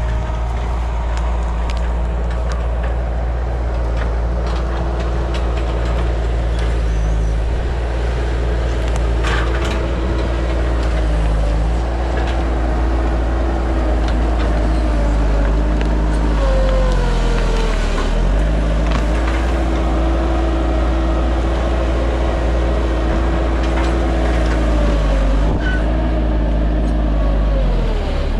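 Bobcat 873 skid steer's diesel engine running steadily at working revs, its pitch sagging and recovering twice, about two-thirds of the way in and near the end, as the machine takes load.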